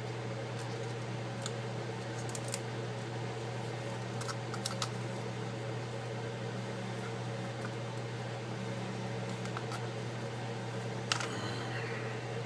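Steady low hum with a few faint clicks from small tools working on the iPad's cable. Near the end a click is followed by a short warbling electronic tone: a phone starting to ring.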